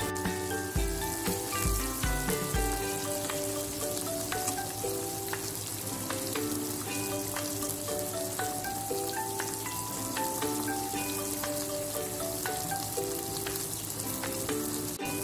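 Chicken breast pieces coated in crispy flour batter deep-frying in hot oil, a steady crackling sizzle. Background music with a melody of stepping notes plays over it, with a few low thumps in the first three seconds.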